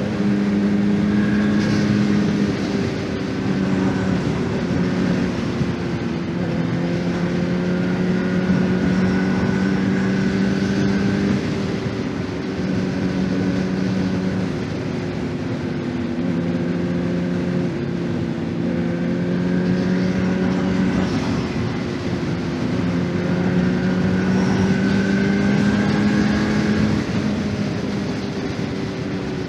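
2024 Honda CBR600RR's inline-four engine running at mid revs under a rider, its pitch rising and dropping every few seconds as the throttle opens and closes through a run of bends.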